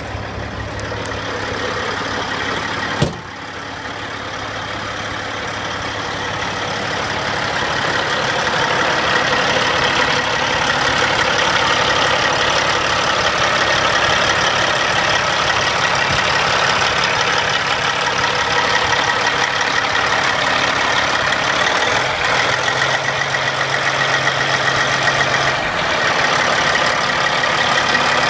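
CAT C15 diesel engine of a Sterling dump truck idling steadily, just after a cold-free easy start. There is a single sharp knock about three seconds in, and the engine gets louder over the next few seconds, then holds even.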